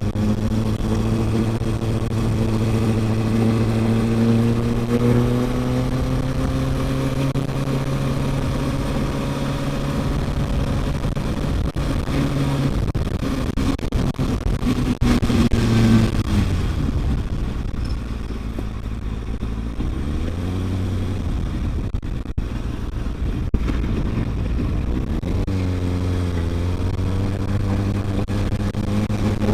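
Kawasaki ZX-6R 636's inline-four engine running under way, its note rising slowly as the bike pulls, dropping off about halfway through and again near the end, then picking back up each time.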